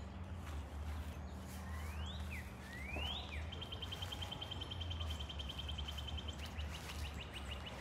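A songbird singing: two rising whistled notes, then a fast, even trill held for almost three seconds, slowing into separate notes near the end, over a steady low hum.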